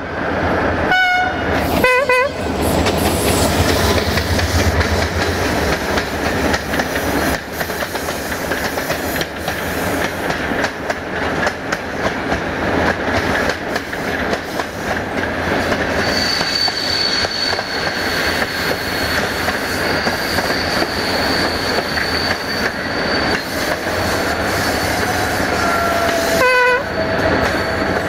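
Short locomotive horn blasts, twice in the first couple of seconds and once more near the end, as a passenger train passes on the next track. Between them runs the steady rumble and clatter of rail wheels over the track, joined about halfway by a thin high wheel squeal.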